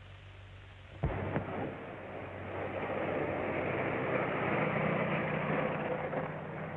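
Faint film-soundtrack hiss, then about a second in a click and a steady rushing vehicle rumble that runs on evenly.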